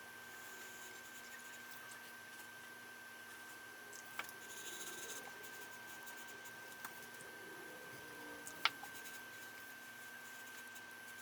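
Quiet handling sounds: two small sharp clicks, the second louder, and a brief scratchy rustle after the first, over a steady faint high-pitched whine.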